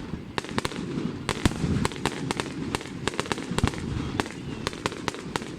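Fireworks going off: a rapid, irregular string of sharp cracks and pops over a steady low rumble.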